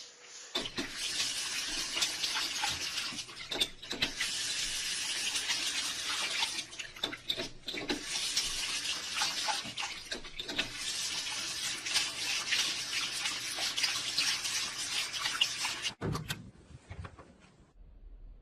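Water running steadily, with a few brief dips, then cutting off abruptly about sixteen seconds in.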